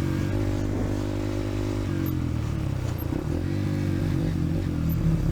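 Dirt bike engine running at low, steady revs as the bike is ridden slowly over a rough trail; the engine note changes about two seconds in.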